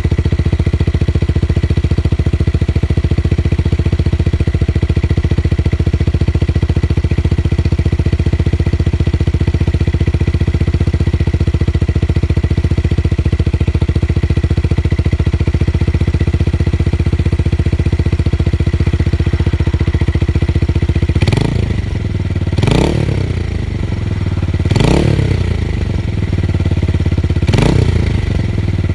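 Tuned motorcycle engine with a deep bass exhaust note, idling steadily, then revved in four short throttle blips during the last several seconds.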